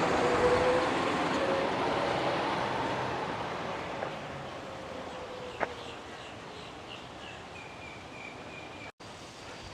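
A passing boat's engine and rushing wash fading steadily as the boat moves away down the inlet. Over the last few seconds there is a run of short high chirps.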